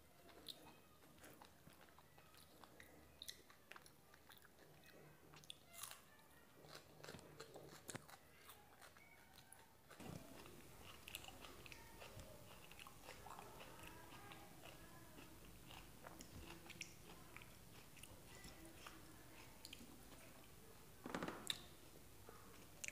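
Faint chewing and crunching of a mouthful of mutton curry with mudhi (puffed rice), eaten by hand: soft mouth sounds and scattered small crunches. A brief louder noise comes near the end.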